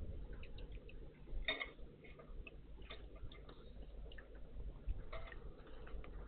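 Small birds (great tits and blue tits) at a garden bird bath: scattered light ticks and taps, with a louder short burst about one and a half seconds in and another near five seconds.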